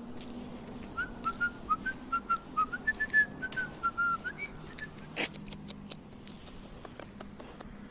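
Whistling: a quick run of short, clear notes that step up and down for a few seconds, over irregular clicks and scuffs. A sharp sound sweeps down in pitch about five seconds in.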